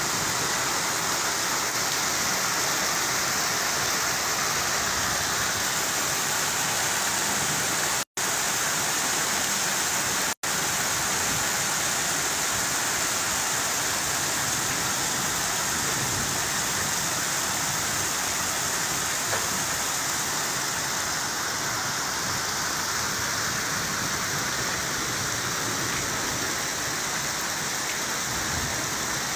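Heavy rain pouring down onto a street, a steady dense hiss, broken twice by momentary dropouts to silence about eight and ten seconds in.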